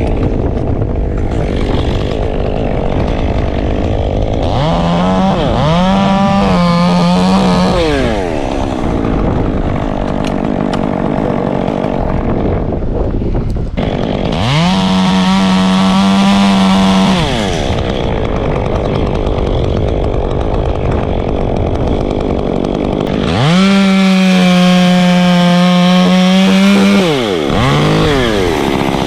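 Two-stroke chainsaw revved to full throttle in repeated bursts, holding a steady high engine note for about three seconds at a time and dropping back in between. The three long bursts come about five, fourteen and twenty-three seconds in.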